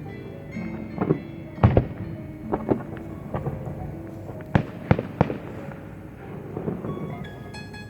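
Fireworks shells bursting in sharp bangs over jazz music from loudspeakers: about seven bangs, the loudest about a second and a half in and a quick run of three near the middle.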